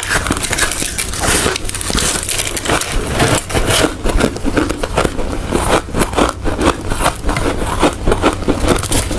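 Ice being bitten and chewed close to the microphone: a dense, rapid run of crunching cracks and crackles.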